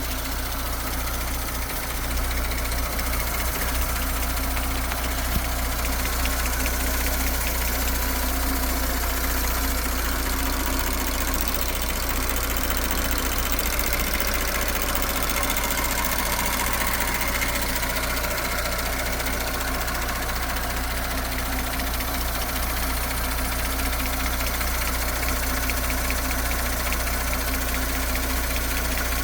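2019 Audi S5's V6 engine idling steadily with a fast, even ticking: the usual tick of the high-pressure fuel pump, plus a second tick from the front of the engine that the owner cannot place and that is new since the engine was replaced.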